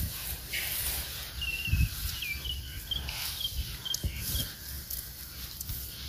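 A small bird chirping a run of short high notes, about two to three a second, between soft low knocks.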